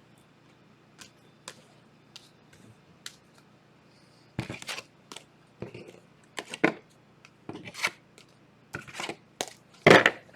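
Trading cards and their plastic holders being handled on a table: a few faint ticks at first, then from about four seconds in a run of louder clacks and rustles as cards are gathered and set down.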